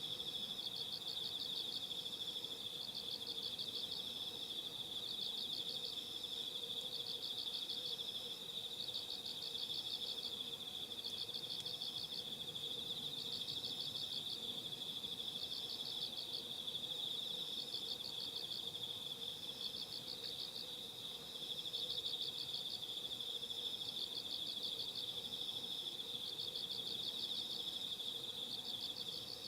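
Night chorus of autumn insects: a continuous high trill, with short bursts of pulsed chirping repeating about every second and a half.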